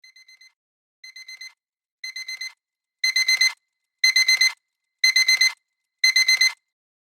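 Electronic alarm beeping in quick groups of four short, high beeps, one group a second. It grows louder over the first three groups, then holds steady.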